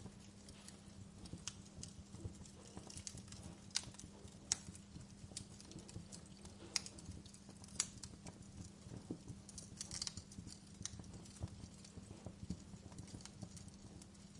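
Wood fire burning, with irregular crackles and sharp pops over a low steady rumble; the loudest snaps come about four and a half and seven seconds in, and a quick cluster of crackles comes about ten seconds in.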